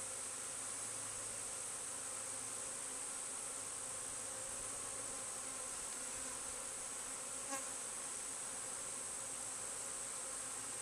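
Steady buzzing hum of a honeybee swarm, many bees flying and milling close by, with one faint click about seven and a half seconds in.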